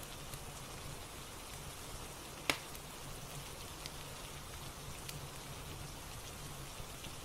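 Steady rain ambience with a soft fireplace fire crackling over it, a few scattered pops and one sharper crack about two and a half seconds in.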